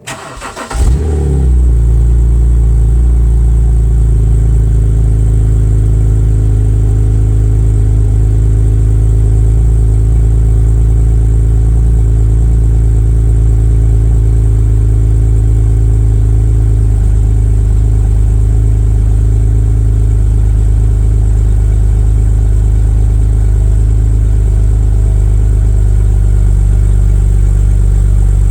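A 2009 BMW 128i's 3.0-litre inline-six is cold-started through a SuperSprint exhaust with the resonator deleted. The starter cranks briefly, the engine catches with a flare about a second in, then runs at a loud, steady idle.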